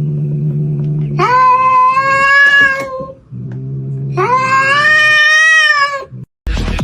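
A cat giving two long drawn-out yowls, each about two seconds, with a low steady growl before each one. Music cuts in right at the end.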